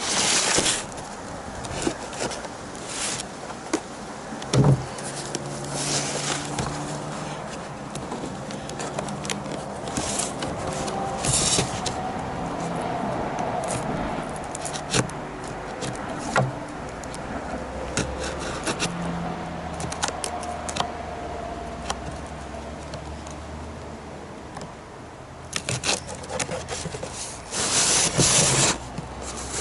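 A satellite receiver's cardboard box and plastic packaging being opened and handled: irregular rustling, scraping and small knocks, with louder bursts of rustling near the start and again near the end.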